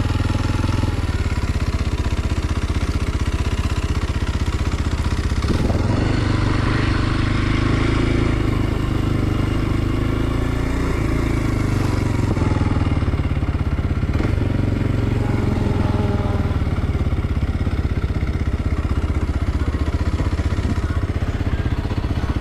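Kawasaki KLX 230 SM's single-cylinder four-stroke engine running while the bike is ridden, its pitch shifting and gliding up and down with the throttle, changing most clearly about six seconds in.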